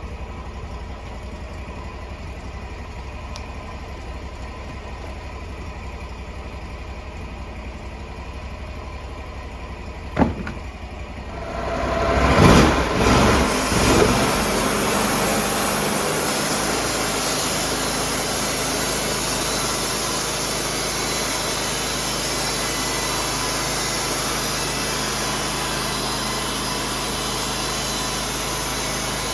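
Sawmill engine running at a low idle, a sharp knock about ten seconds in, then the engine revs up over a couple of seconds and settles into a louder, steady run.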